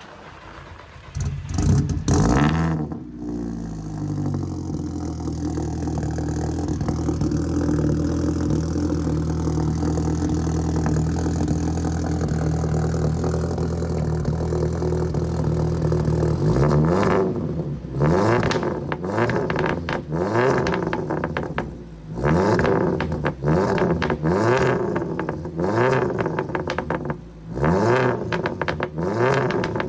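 Seat Leon Cupra R's turbocharged four-cylinder petrol engine cold-starting. It catches about a second in with a brief flare of revs, then settles to a steady fast idle. From a little past halfway it is blipped about ten times, the revs rising and falling, with crackles and pops from the exhaust as the revs drop.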